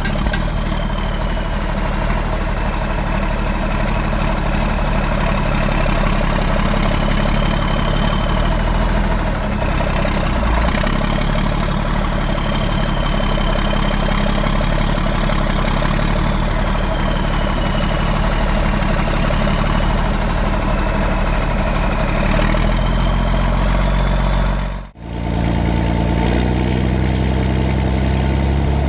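John Deere 4630's turbocharged six-cylinder diesel engine, straight-piped with no muffler, running steadily. The sound breaks off for an instant near the end and the engine carries on.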